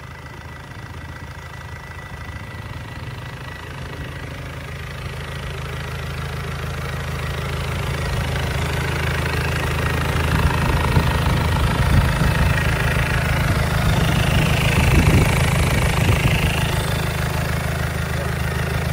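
Isuzu 4JB1 four-cylinder diesel engine running steadily just after start-up, growing louder over the first ten seconds or so and then holding level.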